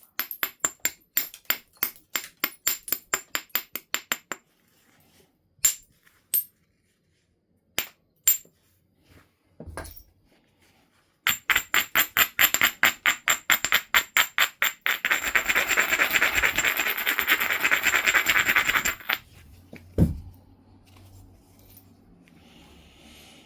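Flintknapping on a stone nodule: runs of quick, short scraping strokes of stone on stone against the piece's edge, four to six a second, typical of abrading a platform. There are a few seconds of continuous rubbing, then one hard percussion blow near the end.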